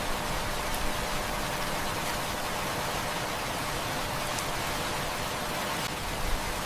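Heavy rain falling in a steady, even hiss, with a few faint ticks standing out now and then.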